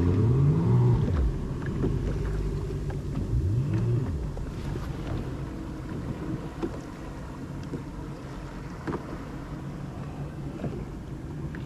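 Jet ski engines running, their pitch swinging up and down several times in the first four seconds, then settling into a steadier hum that gradually grows fainter.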